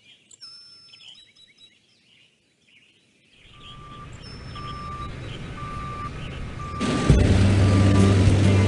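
Birds chirping for about three seconds, then a low rumble swelling, with a short beep repeating about once a second. Near the end, loud music comes in.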